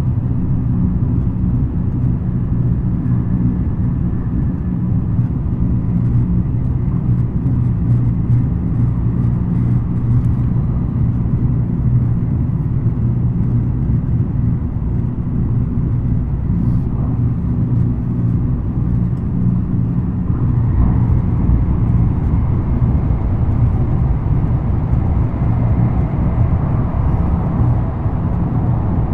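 Steady running noise inside a JR West N700 series 5000 (N700A) Shinkansen motor car as the train travels: a deep, even rumble of wheels and track, with faint thin whining tones above it.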